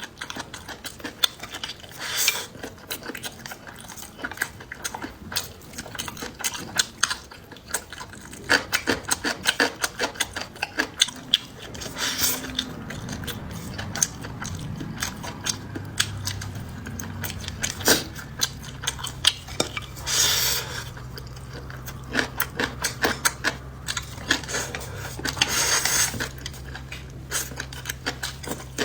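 Close-up eating at a meal: many sharp clicks of utensils against bowls and dishes, with a few short noisy bursts of eating. A low steady hum comes in about halfway through.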